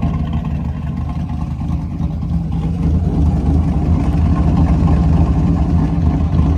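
LS1 V8 engine in a Cutlass running steadily, heard through an exhaust with no catalytic converter.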